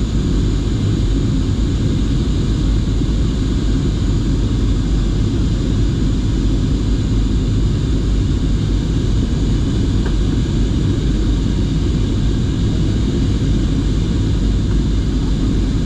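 Steady low rumble of an airliner's engines and airflow heard inside the passenger cabin in flight, with a few faint steady tones over it.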